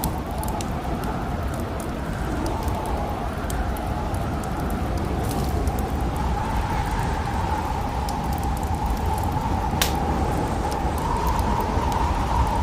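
Wood fire crackling with frequent small snaps and one sharper pop near the end, over the steady rushing howl of snowstorm wind.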